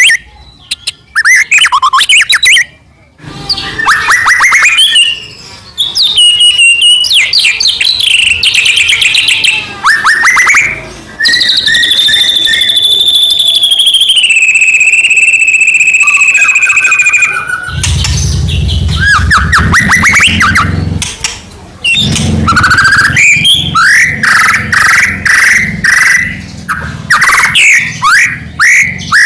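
White-rumped shama (murai batu) singing a long, varied song: fast runs of clicks and chattering notes, short rising whistles, and a long held whistle that steps down in pitch partway through. A low rumble sits under the song for a few seconds in the second half.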